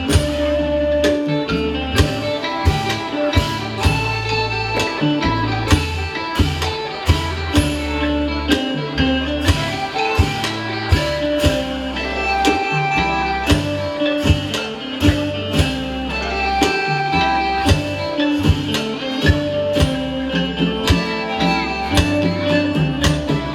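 Isan pong lang band playing instrumental music: melodic lines over a steady drum beat.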